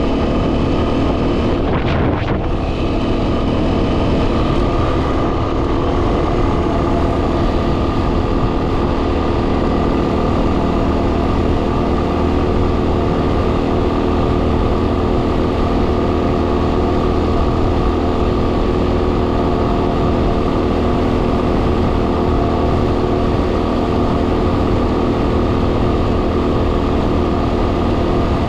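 Single-cylinder engine of a Yamaha WR250R dirt bike running at a steady pace, with heavy wind noise buffeting the microphone. There is a short knock about two seconds in.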